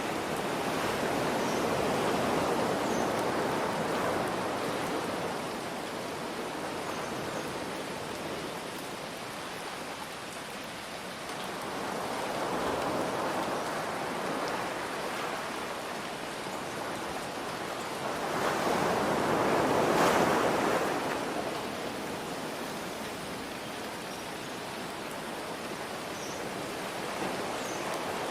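Ocean waves washing in, three slow surges, the loudest about two-thirds through, over a steady hiss of rain.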